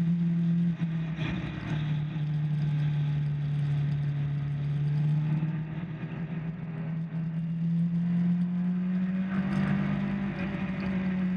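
Motorcycle engine running hard on a racetrack, heard from on the bike. Its note drops in two quick steps near the start, climbs slowly through the middle, and jumps up again near the end.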